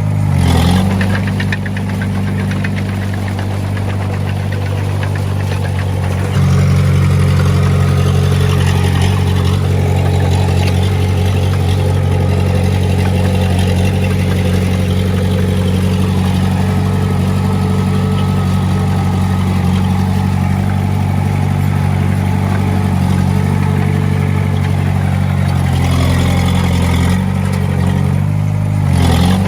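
Diesel engine of heavy earthmoving equipment running steadily with a deep hum, getting louder about six seconds in.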